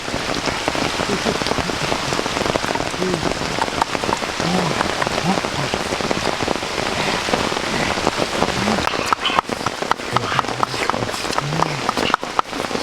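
Steady rain falling, a dense hiss with many sharp drop taps that come more often in the last few seconds.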